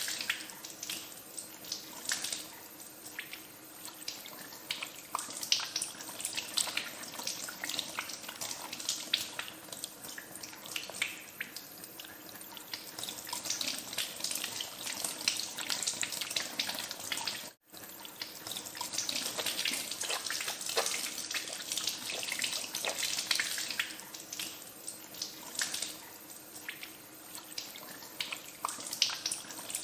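Tap water running into a sink while hands are washed under it, with uneven splashing and spattering. A brief break a little over halfway through cuts the sound out for a moment.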